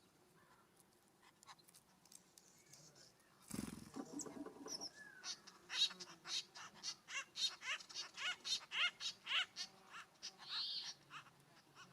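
Wild birds calling: one loud harsh call about three and a half seconds in, then a quick run of short, harsh notes, about three a second, for some four seconds, and a softer call near the end.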